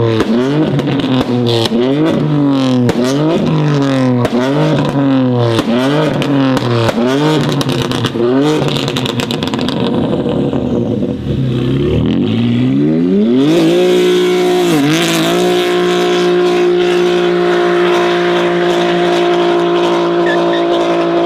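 Performance car engine and exhaust revved in quick blips, about one every two-thirds of a second, for the first eight seconds. The revs then sag, climb again, and are held steady at high revs to the end, with one brief dip a little after the climb.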